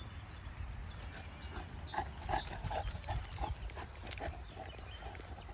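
A Boerboel dog making a string of short, irregular vocal sounds, with faint bird chirps in the background.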